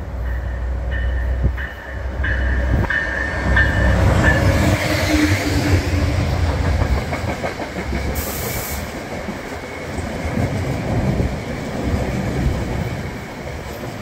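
Diesel-hauled NJ Transit commuter train passing close by. The locomotive's engine rumble peaks in the first half, with a few short high-pitched squeals during its first four seconds. Then the single-level coaches rattle and clack over the rails, with a brief hiss about eight seconds in, fading as the cab car passes and moves away.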